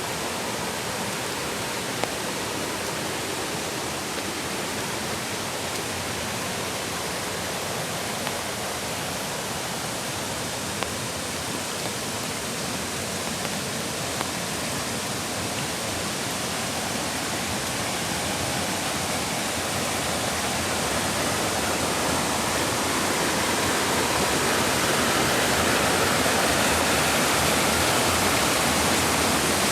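Mountain creek water rushing steadily, growing louder over the last third, with a few scattered ticks.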